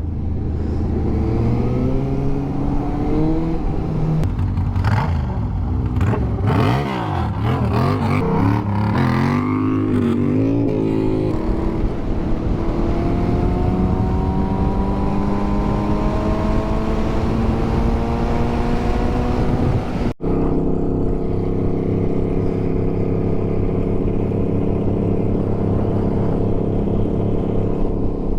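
Motorcycle engine heard from the bike being ridden, its pitch wavering up and down through gear changes early on, then rising steadily as it accelerates, and after an abrupt cut about two-thirds of the way in, holding a steady note while cruising.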